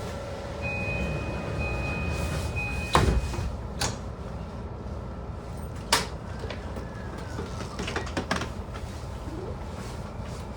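Inside an E235-series commuter train car standing at a station: a steady low hum from the stopped car, a thin high beep lasting about three seconds near the start, and several sharp knocks and clunks of doors and passengers moving about.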